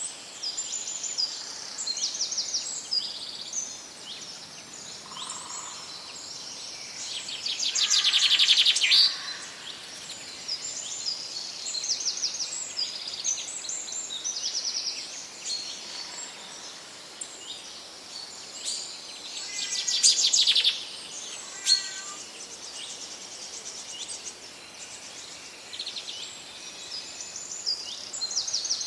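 Several forest birds singing over one another in a steady chorus of chirps and short trills. About a quarter of the way in, and again near two-thirds, one bird close by sings louder, in a fast run of repeated notes.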